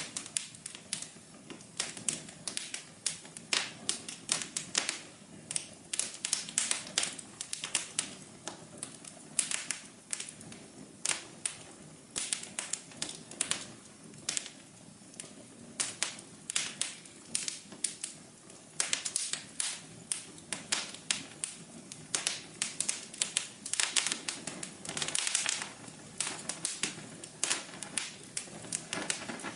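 Wood fire crackling: many irregular sharp pops and snaps over a soft steady hiss.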